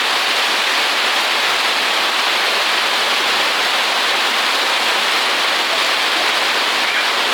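Steady rushing noise of water, loud, even and unbroken.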